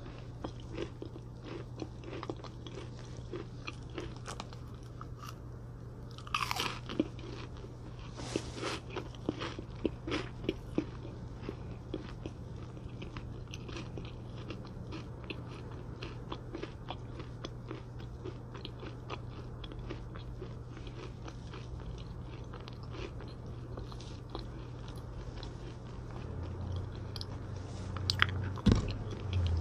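Close-up chewing and crunching of crunchy chocolate-coated snacks, a steady run of small crisp crackles over a faint steady low hum. Louder bites come about six and eight seconds in and again near the end.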